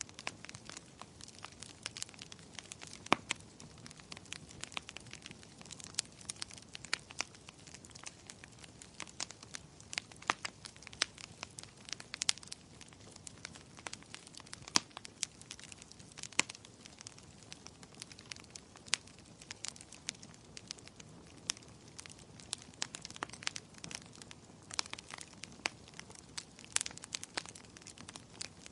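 Wood fire burning in a fireplace, crackling and popping: a soft steady hiss with frequent irregular sharp pops, a few of them louder.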